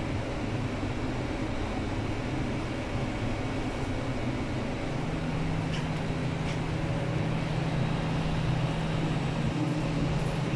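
Inside the carriage of an MTR East Rail line R-Train: a steady rumble with an electrical hum from the train's equipment, and the hum grows stronger about halfway through.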